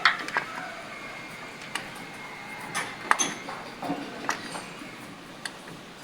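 Scattered sharp metallic clicks and clinks of hand tools working on the tractor's valve gear during a valve-clearance adjustment, a few with a brief ring. The engine is not running.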